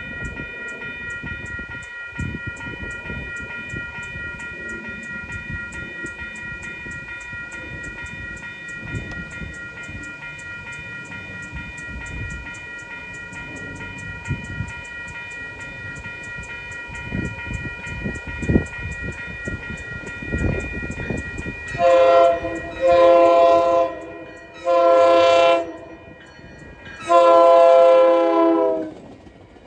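Grade-crossing warning bell ringing steadily and rapidly. About 22 seconds in, the commuter train's locomotive horn sounds the crossing signal of two long blasts, a short one, and a final long one, a chord of several tones.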